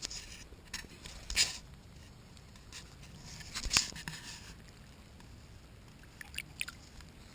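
Faint rustling and scraping handling noises, with two louder scrapes about a second and a half and nearly four seconds in, and a few small clicks near the end.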